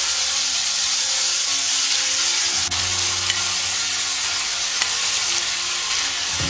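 Raw chicken breast pieces sizzling steadily in hot olive oil in a frying pan on medium heat, as more pieces are laid in.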